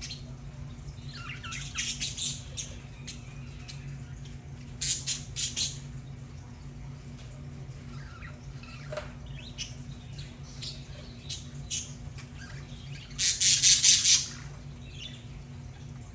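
Budgerigars chattering and squawking in short bursts, the loudest burst near the end, over a steady low hum.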